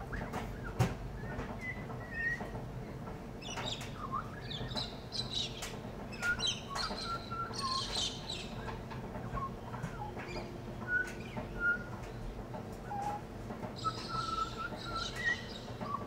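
Pied butcherbird singing: short, clear whistled notes scattered through, mixed with harsher, higher chirps. Underneath runs a steady low hum from a washing machine, and one sharp click sounds about a second in.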